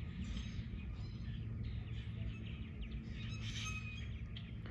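Small birds chirping and calling in short, rapid notes throughout, over a steady low rumble.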